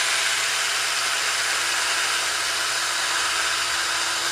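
Electric drill running steadily at constant speed, spinning an engine valve while it is cleaned of carbon deposits with an abrasive pad, with a constant abrasive hiss over the motor's whine.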